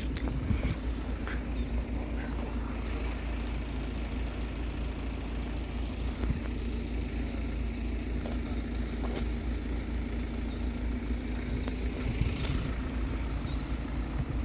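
Steady low engine rumble of road vehicles, with small birds chirping now and then in the second half.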